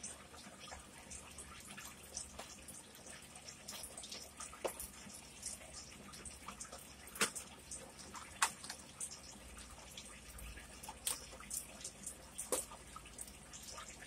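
Faint, scattered wet mouth clicks of someone chewing a white chocolate candy, with small rustles of its wrapper being handled.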